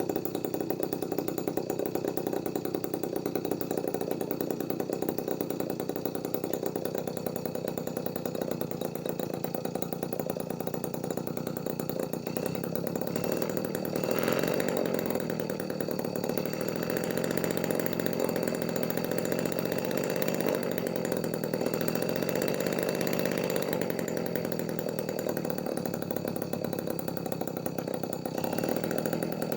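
Homemade miniature two-stroke engine built from a refrigerator compressor, running steadily at idle. It gets a little louder about halfway through.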